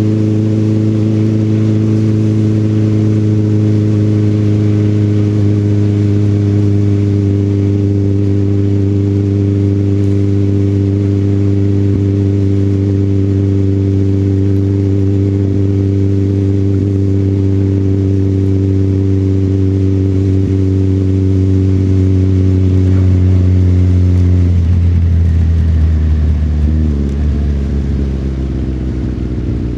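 Motorcycle engine heard from the rider's seat, running steadily at constant revs. About 25 seconds in, the note changes and the revs fall away as the bike slows.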